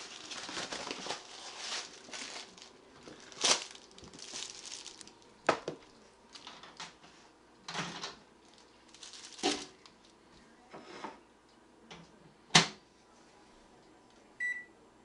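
Food packaging and plates handled with rustling, then a string of sharp knocks and clatters, the loudest about twelve and a half seconds in, and a single short beep from a microwave keypad near the end.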